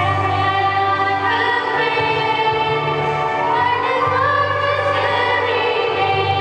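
Music: a choir singing, with sustained instrumental accompaniment and a steady bass.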